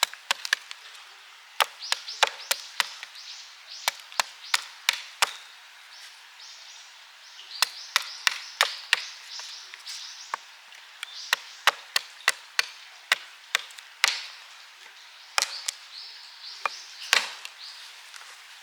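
Wood being chopped: sharp knocks in quick, irregular runs of several strikes with short pauses between them, with a dry crackle around the strikes.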